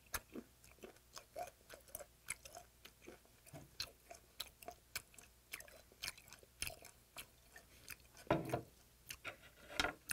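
Close-up chewing of raw yellow stingray sashimi, about two or three wet clicks a second; its cartilage chews tough and rubbery rather than crunching. Past halfway a bottle is poured into a small glass, and there are a couple of louder knocks near the end.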